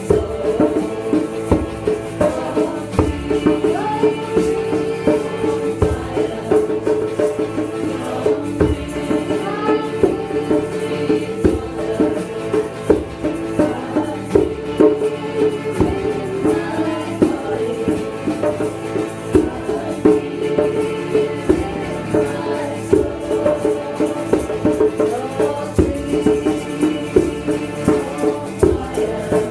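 Kirtan music: voices chanting over steady held chords, with a shaker or rattle keeping a regular beat.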